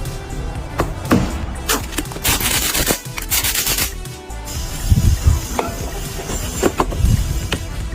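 Hand workshop work on a part, rubbing and scraping strokes with two long harsh strokes in the middle and a few low thuds, over background music.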